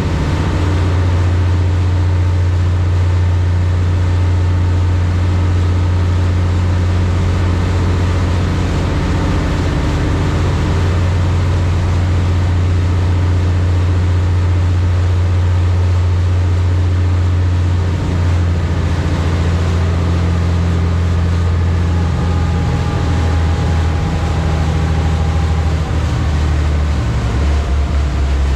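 High-speed passenger boat's engines running with a loud, steady low drone. The engine note shifts about two-thirds of the way through and turns uneven near the end.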